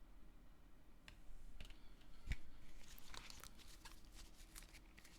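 Tarot cards being handled on a table: faint scattered clicks and rustles, with one sharper tap a little over two seconds in.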